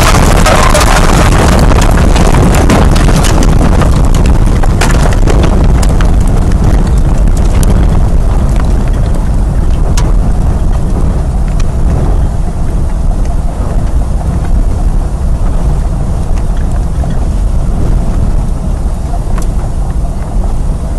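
Strong wind buffeting the microphone with a loud, heavy low rumble, and scattered sharp clicks and knocks in the first half. The higher hiss dies away after about eight seconds, leaving mostly the low rumble.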